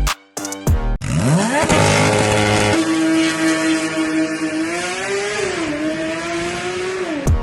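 A car engine accelerating hard: the revs climb steeply, then hold high with a brief rise and dip about two-thirds through, and drop off near the end. A short stretch of music comes before it.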